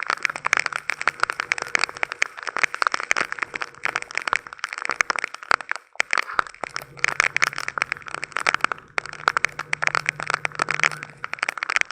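Heavy tropical rain, the drops striking a hard surface close by as a dense, crackling patter that swells and eases in gusts, with a brief lull about halfway through.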